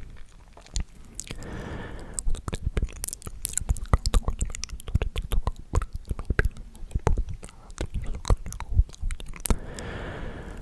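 ASMR mouth sounds very close to the microphone: rapid, irregular wet clicks and smacks of lips and tongue, with a short breathy whisper about two seconds in and again near the end.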